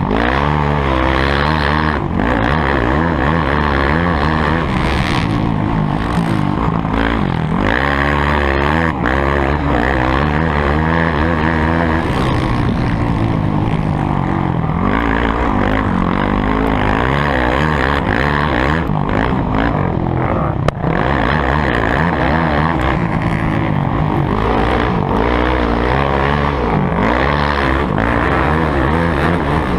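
Motocross bike engine noise that revs up and down over and over as the throttle is opened and shut, with a sharp knock about twenty seconds in.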